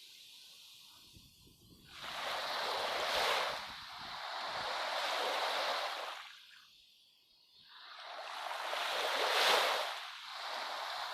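Waves washing in and drawing back: two slow swells of rushing noise, each building for a couple of seconds and fading, with no music.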